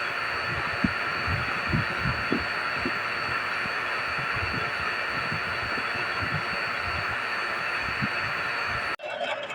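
Refrigerant vacuum pump running steadily with a high whine, evacuating the air-conditioner lines after a compressor replacement, with irregular soft low thumps underneath. The sound cuts off abruptly near the end.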